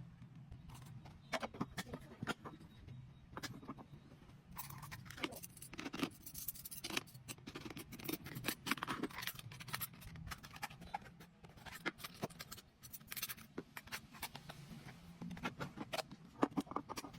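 Irregular clicks, taps and scrapes of utensils against a lunch box and dishes as food is packed, over a steady low hum.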